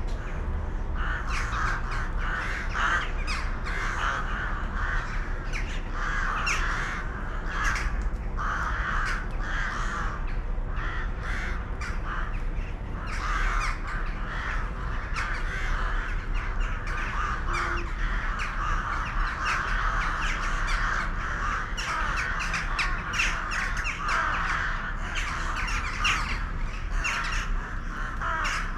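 A flock of birds calling continuously, many calls overlapping, over a steady low rumble.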